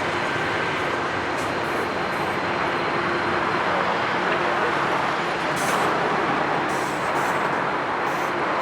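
Jet airliner engines passing close by: a loud, steady rush of noise with a faint high whine held above it.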